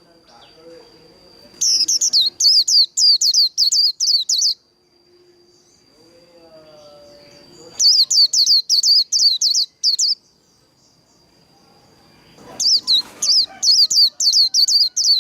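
White-eye (vành khuyên) singing its 'líu' song: three bursts of rapid, sharp, high repeated notes, about three or four a second, each burst lasting about three seconds. A faint steady high tone runs between the bursts.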